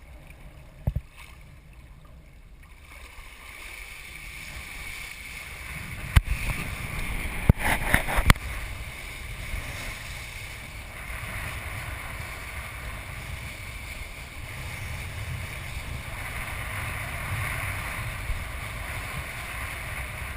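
Wind rushing over the microphone and water hissing under a kiteboard as it gets under way, growing louder over the first few seconds and then holding steady. Several sharp knocks come through about a third of the way in.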